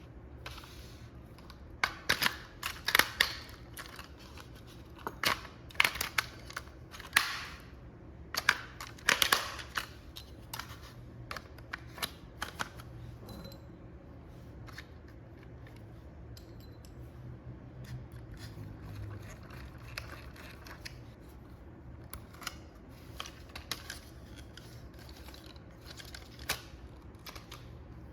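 Irregular clicks, snaps and short rustles of plastic parts and packaging being handled during an unboxing. They are densest and loudest in the first ten seconds, then come sparser and fainter.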